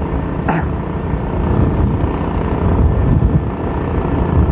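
Motorcycle on the move, its engine and the road and wind noise making a steady low rumble.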